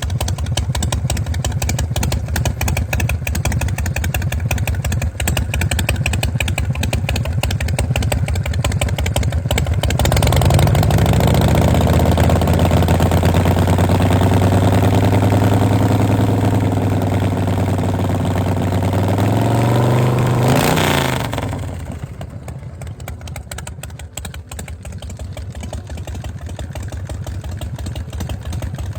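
Custom chopper motorcycle engine idling with a fast, even exhaust beat. About ten seconds in it is revved up and held at a higher speed for about ten seconds, then drops back to idle.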